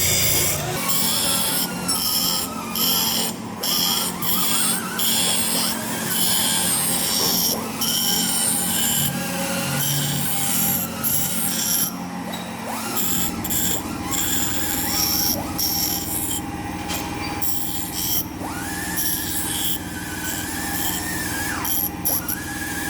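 Power sander grinding a metal part, its pitch sagging and recovering over and over as the piece is pressed against it and eased off. A second steady machine hum comes in about halfway through.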